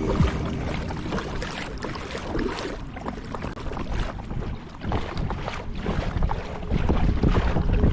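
Kayak paddling: the paddle blades splash and drip irregularly in the water, with low wind rumble on the microphone.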